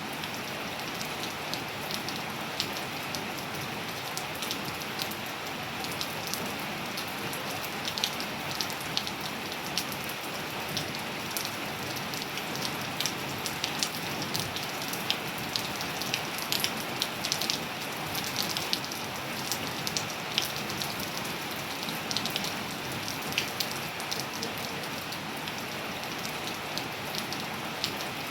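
Steady rain falling on surfaces: an even hiss with many sharp drop impacts ticking out irregularly throughout.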